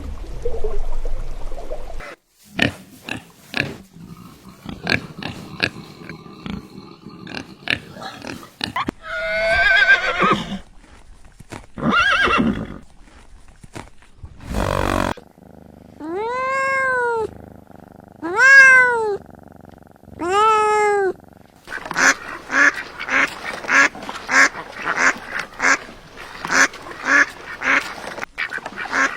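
A run of different animal calls: scattered short calls, then three drawn-out calls that rise and fall in pitch, then duck quacking repeated about twice a second through the last seven seconds.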